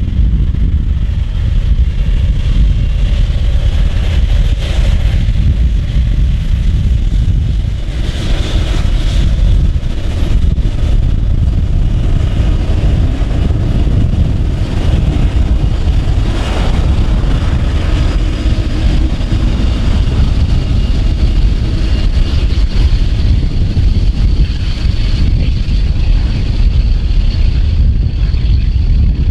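Jet airliner engines running, a loud steady low rumble with a faint high whine that rises a little in pitch in the later seconds.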